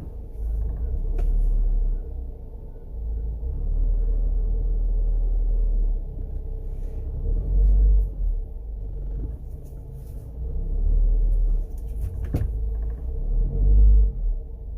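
Honda CR-V first-generation four-cylinder engine heard as a low hum that swells and fades every second or two, with a steady whine held underneath. The hum and whine are the uploader's sign of incorrect distributor timing.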